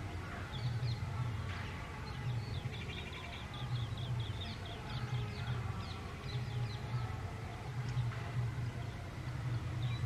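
Garden birds chirping in quick runs of short, high notes, thinning out in the last few seconds, over a low hum that swells about once a second.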